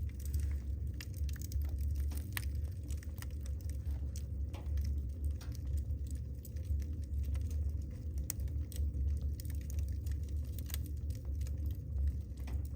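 Wood fire burning in a fireplace, the logs crackling with irregular sharp pops over a steady low rumble.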